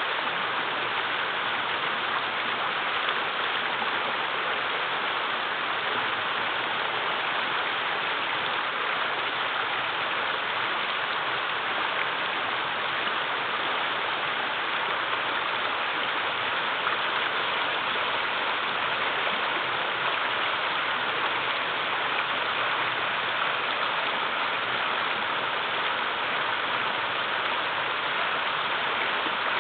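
River water flowing and splashing over small waterfalls, a steady, even rush with no breaks.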